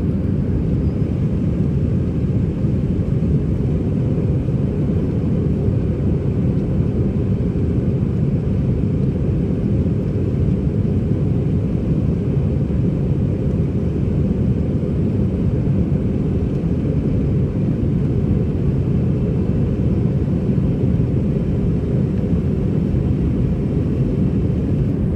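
Steady cabin rumble of an Airbus A320-211 during the climb after takeoff, heard inside the cabin: a deep, even roar of engine and airflow noise with no change.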